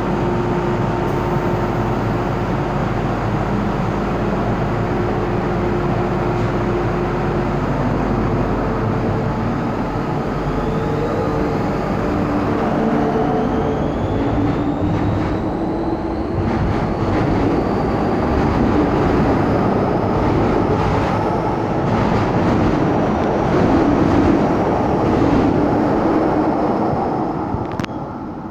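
MTR Island Line M-Train electric multiple unit running, a steady rumble with a low hum at first; from about halfway a whine rises in pitch as the train accelerates. It grows louder, then eases off near the end.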